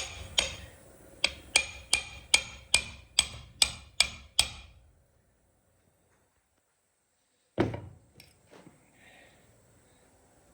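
Hammer tapping on parts of a truck steering column: about a dozen steady, ringing blows at a little over two a second. After a pause there is one more knock and a few light clicks.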